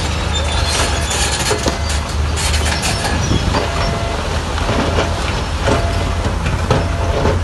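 Bulldozer's diesel engine running steadily with the clank and rattle of its steel tracks, with irregular knocks and some harsher scraping bursts in the first few seconds.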